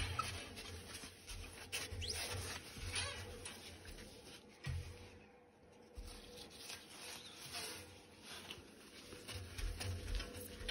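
Faint rustling and scattered light clicks with intermittent low rumbling bumps, with a brief near-silent lull near the middle.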